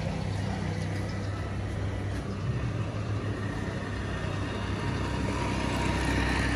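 Steady low engine-like hum, as of a motor vehicle idling, under a constant background noise.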